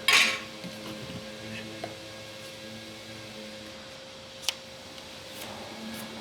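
A steady low hum with a few light clicks and taps, the sharpest about four and a half seconds in, and a short hiss at the very start.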